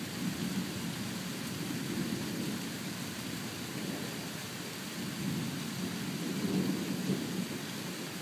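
Thunder rumbling over steady rain during a thunderstorm. The low rumble swells twice, once near the start and again from about five to seven seconds in.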